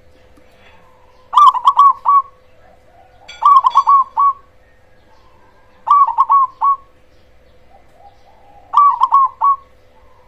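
Perkutut cemani (black zebra dove) singing its loud rolling coo four times, each phrase a quick run of four or five notes, about two and a half seconds apart.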